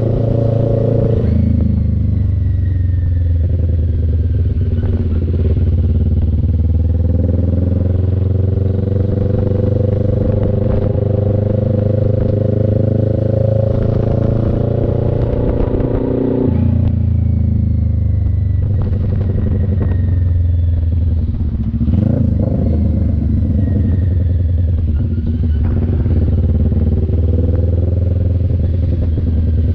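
CF Moto NK400 motorcycle's twin-cylinder engine running while riding. Its pitch climbs slowly for long stretches and drops suddenly twice, about a second in and about halfway through.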